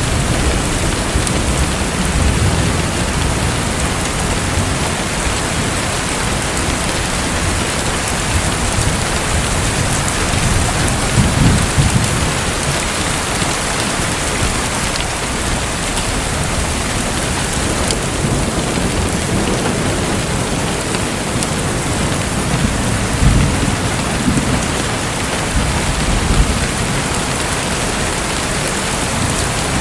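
Steady splashing, rushing water noise with a few soft low rumbles rising out of it now and then.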